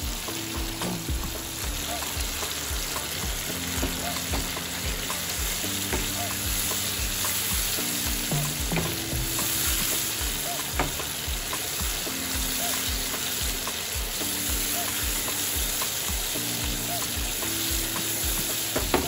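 Food frying in a pan, a steady sizzle, with a few sharp clicks of a utensil against the pan.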